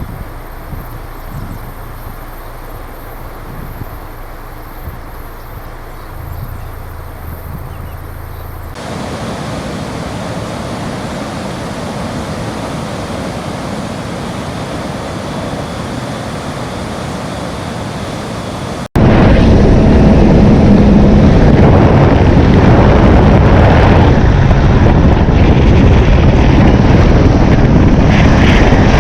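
Steady outdoor noise in three abrupt sections: a low engine-like rumble, then an even rushing hiss, then a much louder rushing noise with wind buffeting the microphone.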